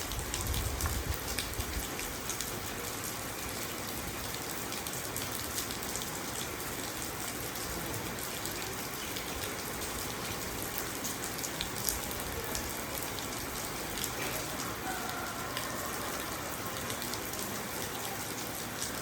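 Steady rain on a car's windows, with single drops tapping on the glass. A low rumble sounds in the first second or so.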